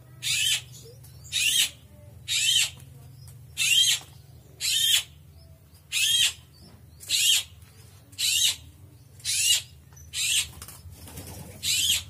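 A bird calling: a short, high-pitched call repeated steadily about once a second.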